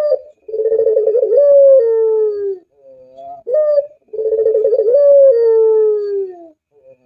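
Puter dove (pelung type) cooing: two phrases, each a short rising note followed by a long, quavering coo that steps up in pitch and then slides down at the end.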